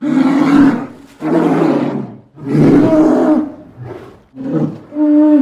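A big cat roaring: about five loud, rough roars in quick succession, each lasting a second or less.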